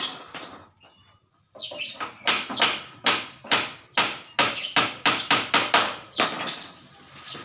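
A rapid run of sharp knocks or taps, about three a second, each with a short ringing tail, starting about a second and a half in and stopping near the end.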